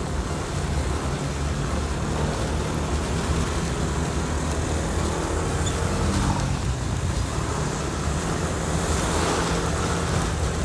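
Yamaha N-MAX scooter's single-cylinder engine running steadily while riding, under a loud, even rush of wind on the microphone.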